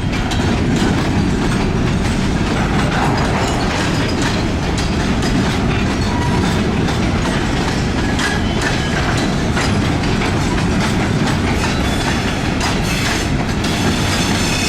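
Freight train being shoved slowly, its cars rolling with a steady clatter of wheels over the rails. A faint, thin wheel squeal comes in near the end.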